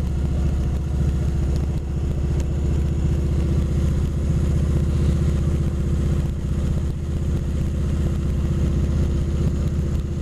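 Kawasaki Vulcan 2000's big V-twin engine running at a steady cruise, its exhaust a fast, even low pulse, easing off slightly twice.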